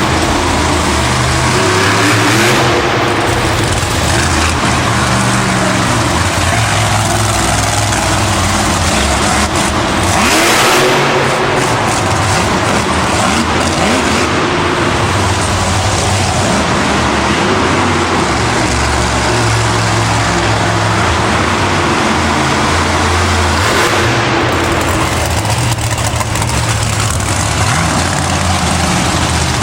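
Monster truck's supercharged V8 running hard, revving up and down repeatedly, with a louder surge about ten seconds in.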